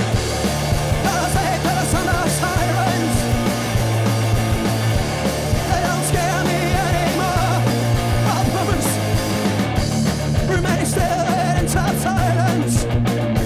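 Live punk-rock band playing loud, with distorted guitars, a bass line moving between held notes, drums and cymbals, and shouted vocals over it.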